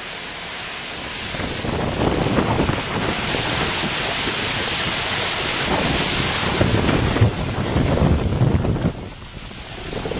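Rushing floodwater, a loud steady wash of noise, with wind buffeting the microphone; it builds over the first two seconds and eases briefly near the end.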